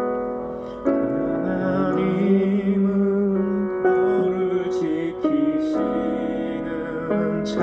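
Electric keyboard playing slow, sustained chords as the introduction to a Korean praise song, with the chords changing every second or two.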